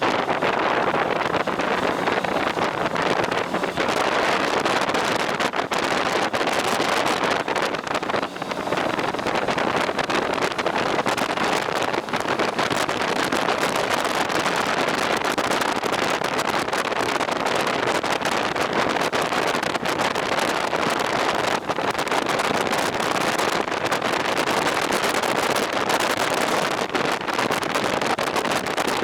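Steady rush of wind buffeting the microphone on a moving two-wheeler, with no clear engine note standing out.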